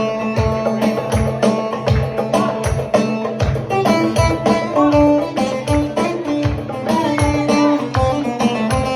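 Middle Eastern wedding band music: a steady drum beat of about two strokes a second under a melodic lead line that steps up and down.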